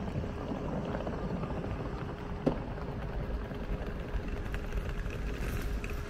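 Train at a railway station: a steady low rumble with a faint constant hum, and one sharp clank about two and a half seconds in.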